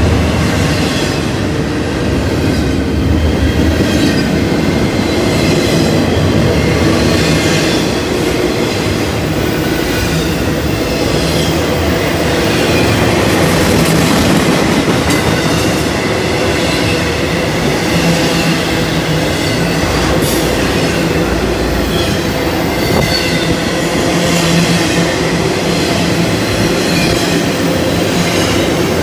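Intermodal freight train cars (double-stack container well cars and trailer flatcars) rolling past close by: a steady rumble and clatter of steel wheels on the rails, with a faint high wheel squeal at times and an occasional knock.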